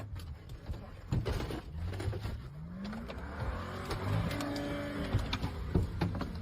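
Car engine running with a rising rev about two and a half seconds in, amid tyre and road noise and several sharp knocks.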